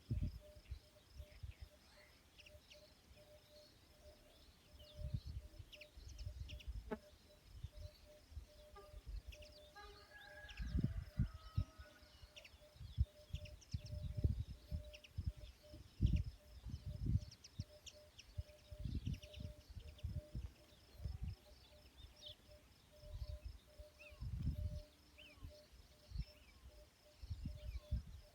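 Outdoor nature ambience: birds chirping here and there over an evenly pulsing high chirp, with gusts of wind rumbling on the microphone.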